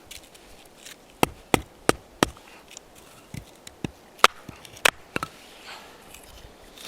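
Wood being split for kindling with sharp knocking strikes: four quick strikes about a second in, then four more spaced further apart.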